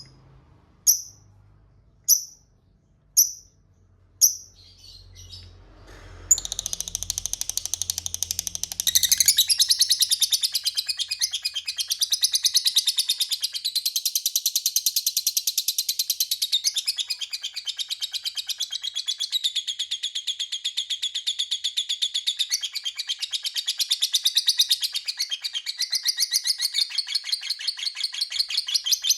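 Lovebird calling: a few single sharp chirps about a second apart, then from about six seconds in a long, rapid, continuous chattering trill (the 'ngekek panjang'), louder from about nine seconds in.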